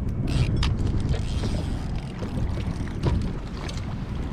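Wind buffeting the microphone on a kayak at sea, with a few sharp knocks against the boat: two or three in the first second and one about three seconds in.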